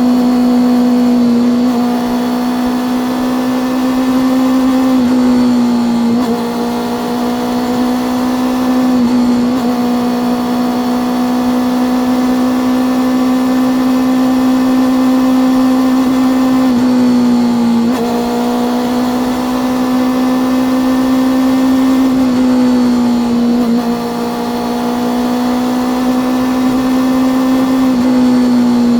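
Honda CB400SF inline-four engine and exhaust running steadily under way. The engine note holds a constant pitch and dips briefly several times, each time coming back up within about a second.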